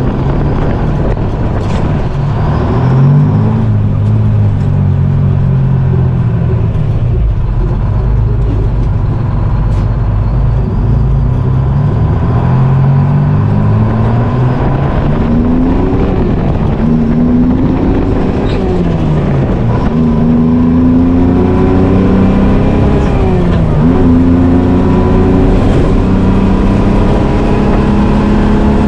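GMC Crackerbox semi's Detroit Diesel two-stroke engine pulling hard up through the gears. Its pitch climbs and then drops back at each shift, six or seven times over, with a steady whine above it.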